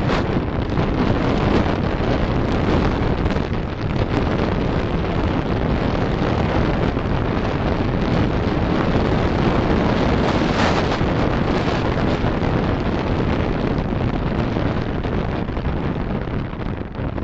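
Steady rushing road and wind noise of a car being driven, with a brief louder rush about ten seconds in.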